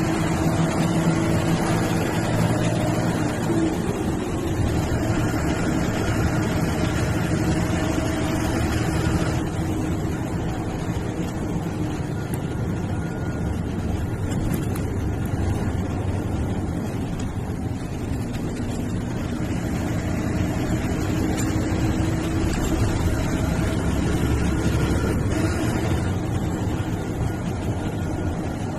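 Diesel engine of an MSRTC sleeper/seater bus running under way, with road noise, heard from inside the bus. The engine note falls away about a third of the way through and picks up again later.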